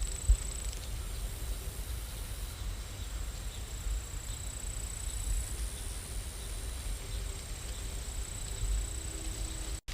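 Steady rain ambience with a deep rumble and a faint hiss, interrupted by a single sharp thump about a third of a second in.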